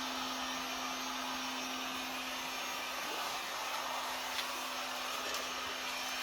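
Electric heat gun running steadily, a constant blowing rush with a steady motor hum, heating the headliner adhesive to activate it.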